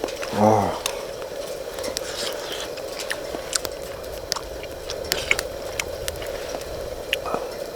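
Someone eating soup from camp cookware: chewing, with scattered light clicks of a utensil against the pot, over a steady hum. A short hummed voice sound comes about half a second in.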